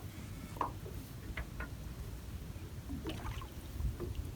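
Water sloshing and dripping as a gill net is hauled up out of the water, with a few short splashes over a low steady rumble.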